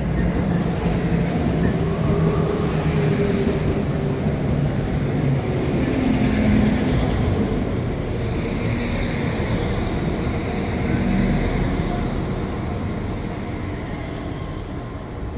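A train running past at close range, a steady rumble of wheels and machinery with a few low wavering tones, growing fainter near the end.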